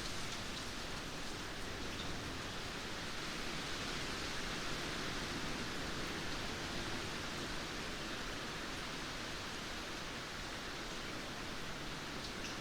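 Steady rainfall, an even hiss with no letup, with a few faint drop ticks.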